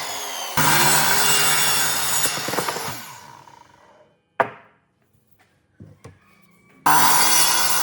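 Power tool working wood, a steady motor hum under the noise of the cut. It dies away about three seconds in, a sharp knock comes at about four and a half seconds, then a couple of light knocks, and the tool noise cuts back in abruptly near the end.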